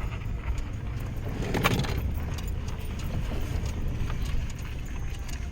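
A vehicle engine running with a low, steady rumble, and a brief metallic rattle about a second and a half in.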